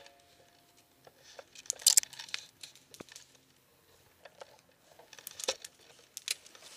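Irregular rustling and crunching of a player moving through brush and leaf litter, with a few sharp clicks in between, loudest about two seconds in and again near the end.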